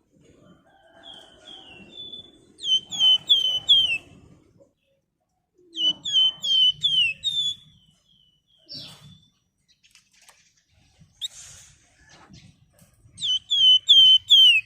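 A flamboyan songbird gives three rapid phrases of sharp, downward-hooking whistled notes, about four notes a second, with short pauses between the phrases.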